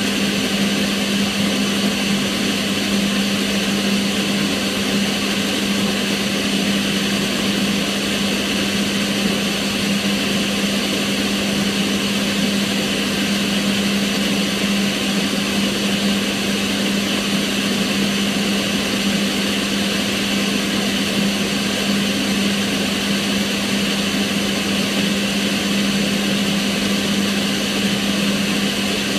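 Kitchen range hood's extractor fan running steadily, giving an even rushing noise over a constant low hum.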